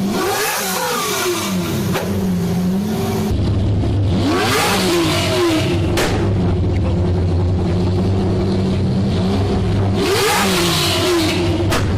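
Lamborghini Diablo V12 engine revving: three rises and falls in pitch, about half a second in, about four seconds in and about ten seconds in, over a steady running note between them.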